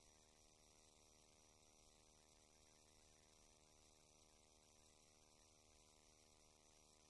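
Near silence: a faint, steady electrical hum with hiss, the recording's noise floor.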